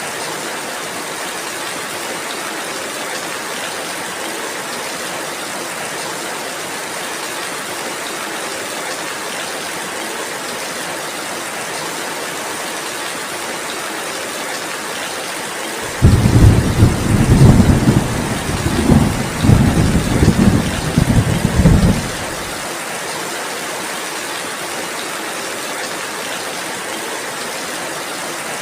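Steady rain throughout. About halfway through, a loud low rumble of thunder comes in for about six seconds, starting and stopping abruptly.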